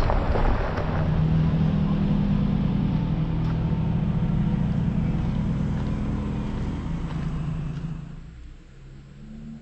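Jeep Gladiator's 3.6-litre V6 engine drone while driving on a back road: a steady low hum that falls away sharply about eight seconds in.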